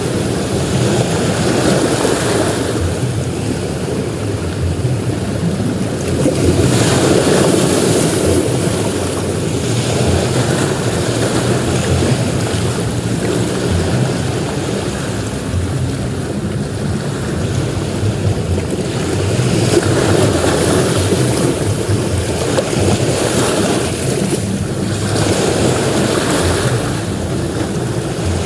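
Ocean waves breaking on a beach: a continuous rush of surf that swells and fades every few seconds as each wave comes in.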